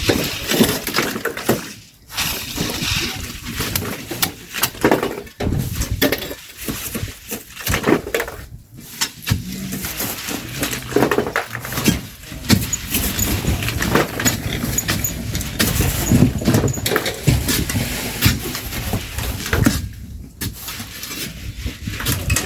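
Shovels scraping into sand and throwing it into a truck, with many irregular scrapes and knocks over a low rumble.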